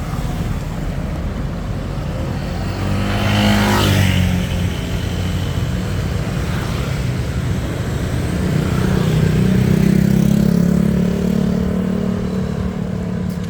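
Road traffic: motor vehicle engines running steadily, with one vehicle passing about three to four seconds in and an engine speeding up from about eight to eleven seconds in.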